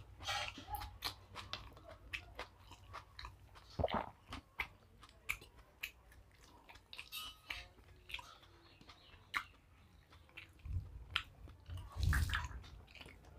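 Close-miked chewing of a mouthful of rice, with many small wet mouth clicks and smacks. A louder rustling bump near the end.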